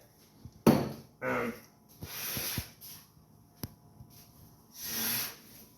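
Several short, breathy hissing bursts of air about a second apart, with a sharp click in the middle.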